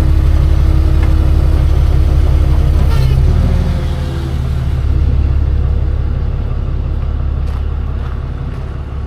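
A nearby truck engine running with a steady low rumble. About three and a half seconds in, its pitch and level drop to a lower idle that slowly fades.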